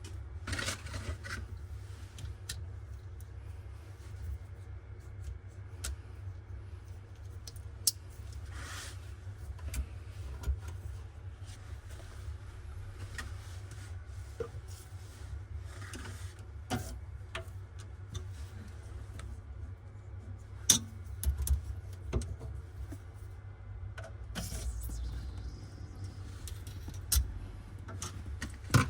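Steady low hum with scattered sharp clicks and knocks of tools and metal fittings being handled, a cluster of them about two-thirds of the way through.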